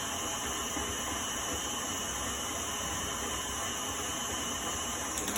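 Electric stand mixer running steadily at a raised speed, beating ginger snap cookie dough.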